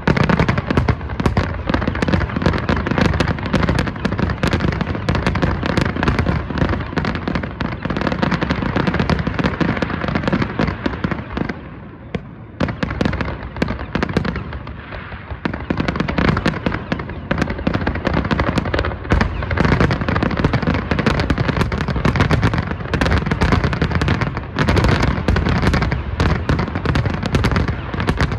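Aerial fireworks shells bursting in rapid succession, a dense barrage of bangs and pops. The barrage eases briefly about twelve seconds in, then builds again.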